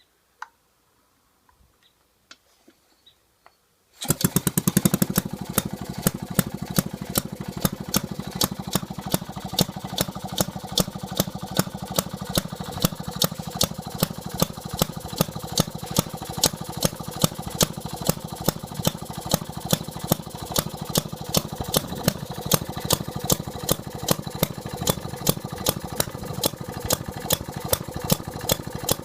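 1919 upright 1 hp Maytag gas engine starting up about four seconds in, after a few faint clicks, then running steadily with a rapid, even firing beat.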